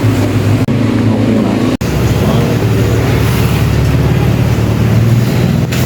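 Vehicle engine running steadily, heard from on board, with a low hum and road noise.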